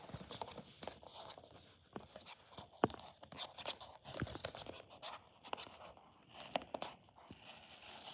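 A toy blind box being handled and opened by hand: scattered light crinkles, scrapes and small clicks of the packaging.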